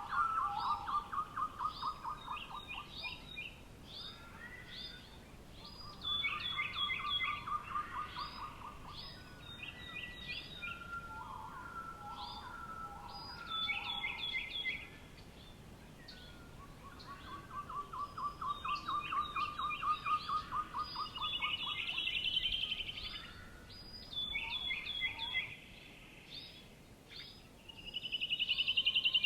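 Songbirds singing: phrases of fast, even trills, some lower and some higher-pitched, overlapping and repeating every few seconds.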